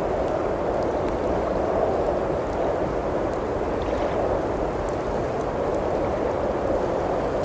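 Steady blizzard wind noise with faint, scattered crackles from a wood fire in a fireplace.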